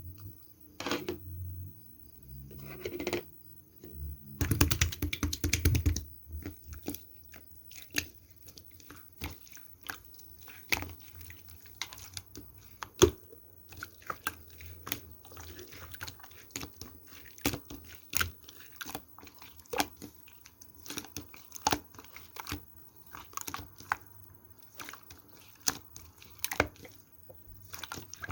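Clear slime being pressed, poked and stretched by hand, giving irregular sharp clicks and pops, with a quick run of crackling pops about four to six seconds in.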